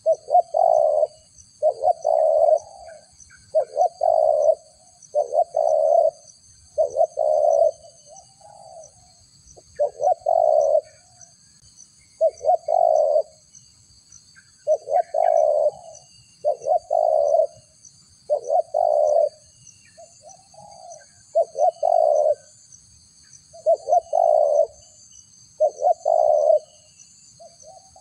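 A dove cooing over and over as a trapper's lure call: short pulsed coos, each under a second, about one every one and a half seconds with brief pauses, over a faint steady high whine.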